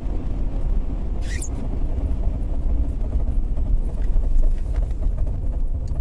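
Steady low road and engine rumble of a moving car, with a brief high squeak about a second in.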